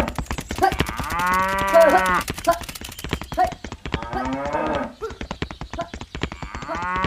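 Cattle mooing several times, with two long, drawn-out moos about a second in and again near the end. A rapid, even clicking runs underneath.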